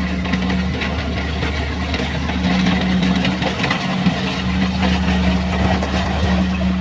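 Kubota combine harvester running steadily in a rice paddy: a constant engine hum under a busy rattling noise, which swells slightly a couple of seconds in.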